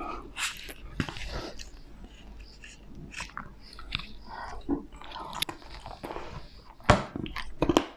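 Close-miked eating of peanut butter crunch ice cream: biting and chewing, with short crunchy clicks scattered throughout and a louder cluster near the end.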